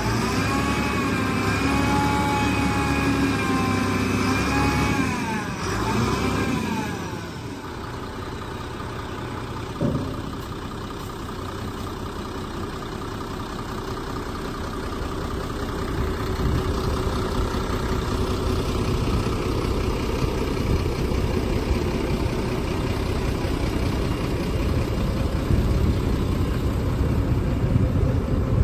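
Sinotruk Howo dump truck's diesel engine running. For the first several seconds a whine wavers up and down in pitch over the engine. A single knock comes about ten seconds in, and after that the engine runs steadily, getting louder in the second half.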